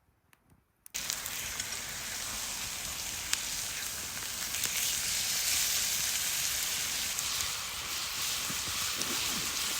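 Pork belly sizzling in a hot frying pan over a wood fire: a steady frying hiss that starts abruptly about a second in, with scattered sharp crackles.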